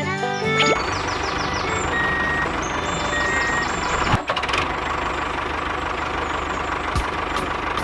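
A small motor running steadily with a high whine and a dense mechanical rattle, after background music cuts off in the first second; a sharp click about four seconds in.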